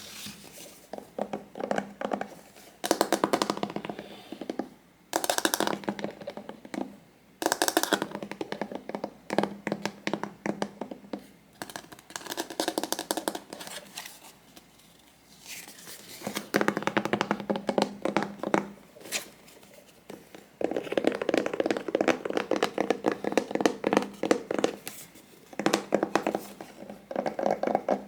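Hands handling and tapping small objects close to the microphone, in bursts of rapid clicks and taps a few seconds long with short pauses between.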